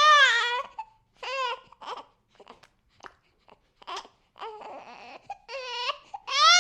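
A baby crying: a long wail at the start, then short broken cries and fussy whimpers, and another long wail starting near the end.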